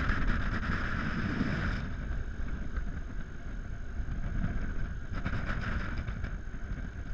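Steady rumble of engine and wind noise inside a small plane's cockpit as it comes down for a crash landing. A higher hiss drops away about two seconds in.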